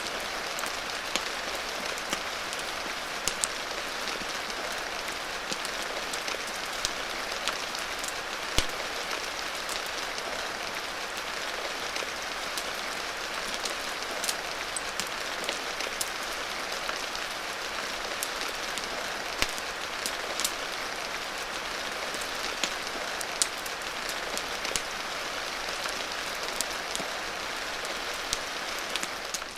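Steady hiss of heavy rain, mixed with the occasional sharp crackle and pop of a wood fire, a single louder pop about eight seconds in.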